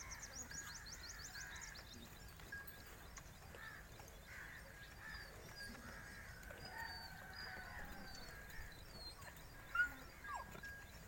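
Faint farmyard bird sounds: a quick high trill at the start, then scattered short chirps, and one brief louder call about ten seconds in.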